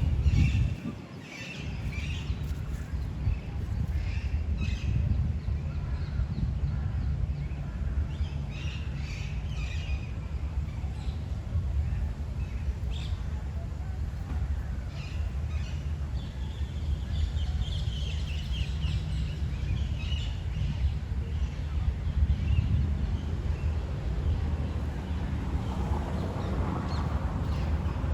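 Wind on the microphone, a steady low rumble, with birds calling and singing on and off above it; a longer run of song comes about halfway through.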